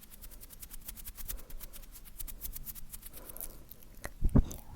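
ASMR mouth sounds close to a sensitive microphone: a fast run of small wet clicks for the first few seconds, then a few louder, deeper pops near the end.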